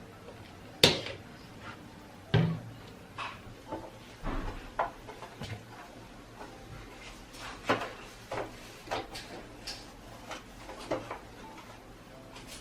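A string of knocks and clicks from household things being handled and set down, with two louder knocks about a second and two and a half seconds in, much like cupboard doors or drawers shutting.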